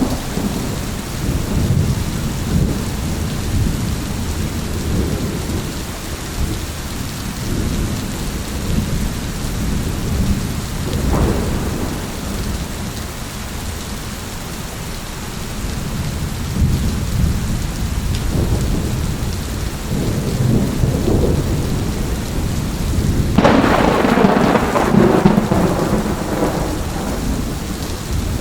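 Thunderstorm: steady rain with low, rolling thunder rumbling throughout. A short, sharper crack comes about a third of the way in, and a louder peal of thunder near the end lasts a few seconds.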